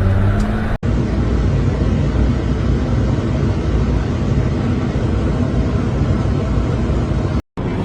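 Steady low rumble of a moving vehicle, road and engine noise. It drops out for an instant about a second in and again near the end.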